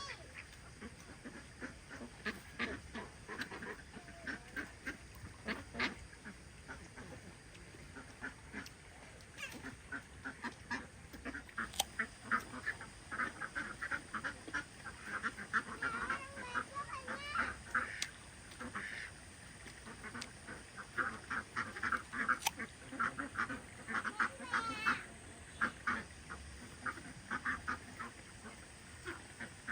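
Domestic waterfowl calling: many short, repeated calls from several birds, with a few sharp clicks in between.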